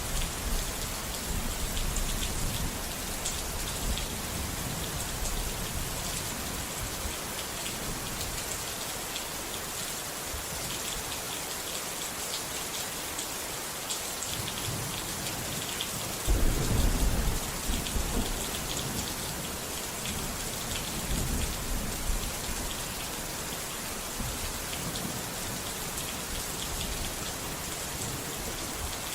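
Steady rain falling, with fine patter of drops, and low rumbles of thunder, the loudest roll about halfway through.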